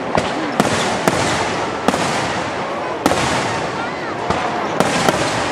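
Aerial firework shells bursting overhead: seven sharp bangs at uneven intervals over a continuous dense noise.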